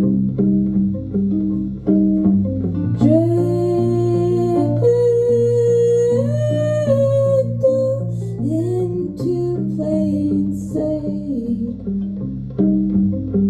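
Live band music: a guitar picking a repeated pattern over a bass line. A woman sings long notes that glide up and down from about three seconds in until about ten seconds in.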